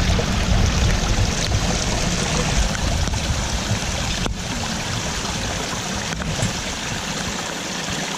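Steady rush of heavy hurricane rain and running floodwater, with low wind buffeting on the microphone that eases about seven seconds in.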